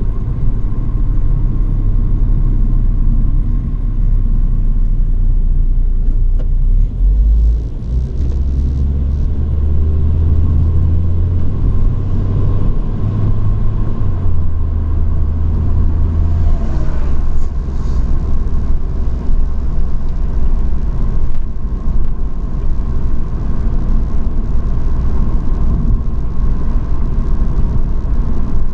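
Truck engine and road rumble while driving, the engine's low drone stepping up and down in pitch a few times in the middle.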